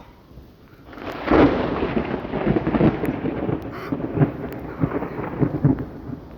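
A thunderclap breaks suddenly about a second in and rolls on as a long, uneven rumble, with rain falling.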